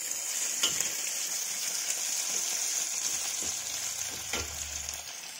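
Noodles and vegetables sizzling in a kadhai over a gas flame turned up to full, with a steady frying hiss. A steel spatula scrapes against the pan a few times as the food is stirred.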